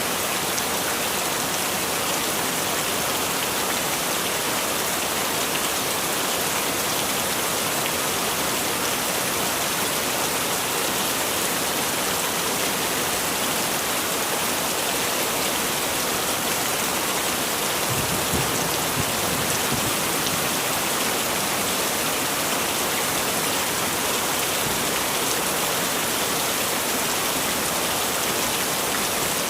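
Heavy rain falling steadily, a dense even hiss of drops on surfaces. About two-thirds of the way through there is a brief low rumble under the rain.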